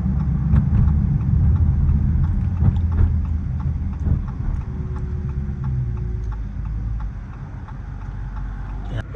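Exhaust of a Dodge SRT 392's 6.4-litre HEMI V8 with the mufflers deleted, a low rumble while driving that eases off and gets quieter over the second half.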